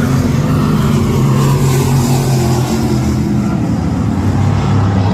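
Race car engines running with a steady, loud drone whose pitch shifts slightly.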